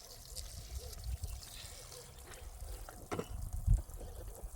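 Water trickling and pouring over a low rumble, with a single sharp thump about three-quarters of the way through.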